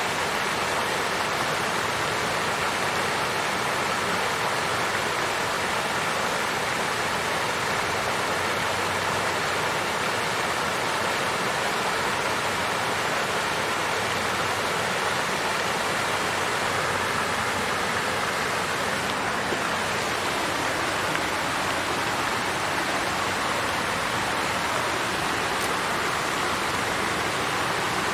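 Water fountain with water flowing and splashing in a steady, even rush.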